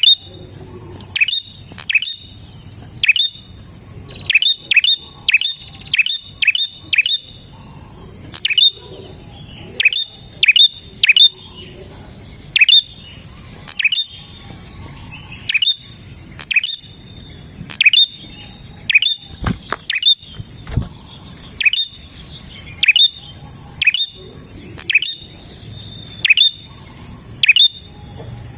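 Prinia (prenjak) calling over and over: short, sharp chirps that drop steeply in pitch, some singly and some in quick runs of three or four.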